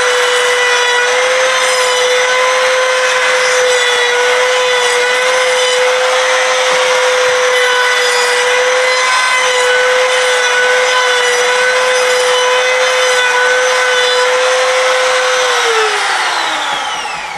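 Handheld electric router from Harbor Freight running loud and steady, routing the edge of a wooden part. Near the end it is switched off and its whine falls in pitch as the motor spins down.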